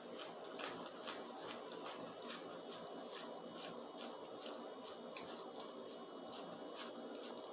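Close-up chewing of a mouthful of spaghetti, with soft wet mouth clicks about three times a second.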